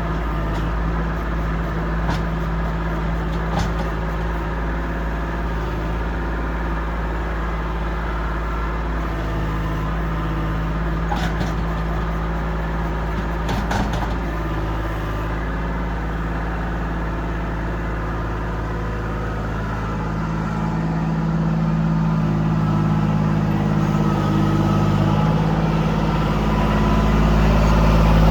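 Kubota L2501 compact tractor's three-cylinder diesel engine running steadily, growing louder about twenty seconds in, with a few light knocks along the way.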